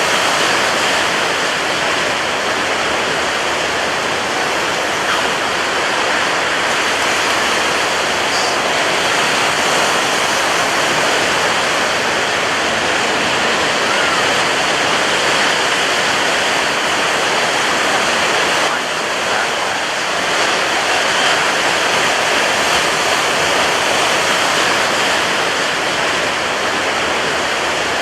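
Ocean surf breaking on a beach: a steady, dense wash of waves with no clear pauses between breakers, dipping slightly for a moment about two-thirds of the way through.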